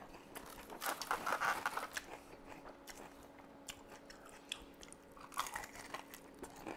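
Close-miked chewing, then a bite into a crispy fried chicken wing a little after five seconds in.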